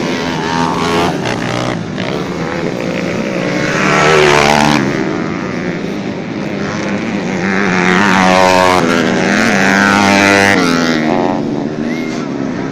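Motocross dirt-bike engines revving hard as more than one bike races past, the pitch climbing and dropping with throttle and gear changes. The sound swells about four seconds in and again from about eight to ten seconds.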